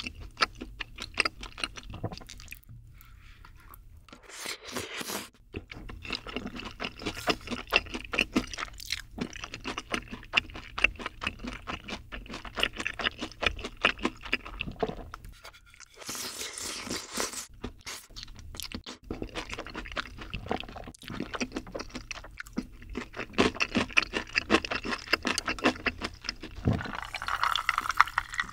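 Close-miked chewing of spicy sauced boneless fried chicken: steady irregular crunching and wet mouth sounds, with a brief louder, noisier stretch about halfway through.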